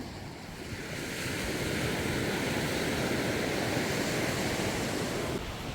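A steady rushing noise of water that swells about a second in and cuts off suddenly near the end.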